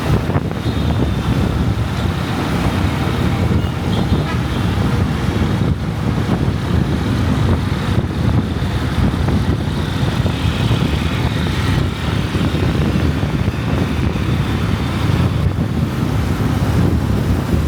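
Steady rumble of a motorcycle riding through road traffic, with wind on the microphone. Faint horn tones sound twice, once early and again around the middle.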